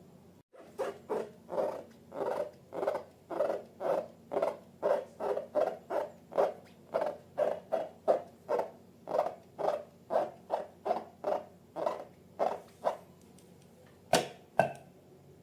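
Slime being worked by hand, a short wet squish repeated evenly about two to three times a second, then two sharp clicks near the end.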